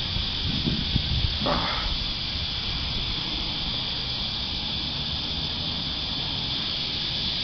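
Cicada chorus, a steady high-pitched drone, over low rumbling, with a few brief knocks and rustles in the first couple of seconds.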